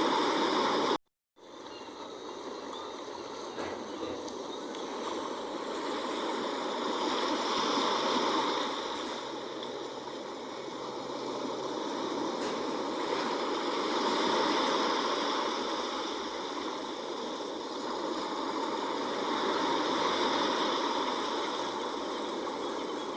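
Sea waves washing in and out, the rush swelling and fading about every six seconds. A brief cut to silence about a second in.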